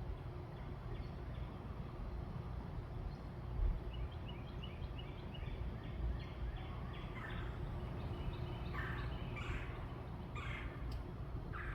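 Birds calling over a steady low outdoor rumble: a run of quick high notes, then several louder, short, rough calls in the second half.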